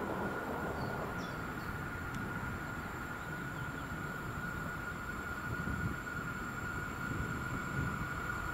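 EN57 electric multiple unit approaching along the track, a steady low rumble of its wheels and traction motors with a constant high hum over it. A few faint short chirps come about a second in.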